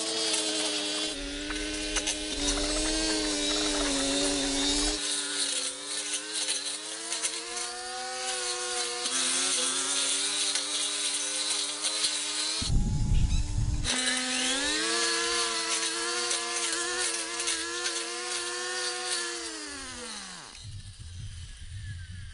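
A small motor or engine running with a steady hum whose pitch wavers up and down, briefly interrupted about two-thirds of the way through, then slowing with a falling pitch and dying away near the end.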